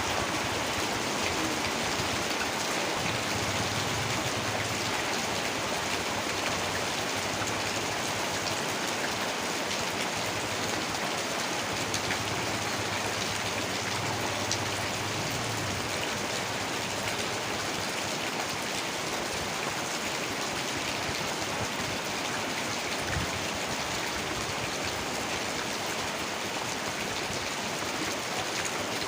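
Heavy rain pouring steadily, an even, dense hiss of falling drops.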